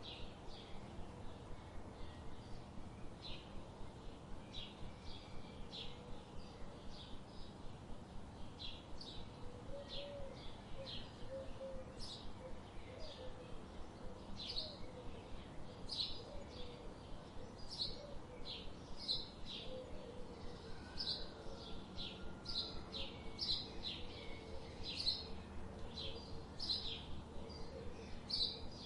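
Birdsong: many short, high chirps in quick succession, with a fainter, lower wavering call joining from about ten seconds in, over a steady background hiss.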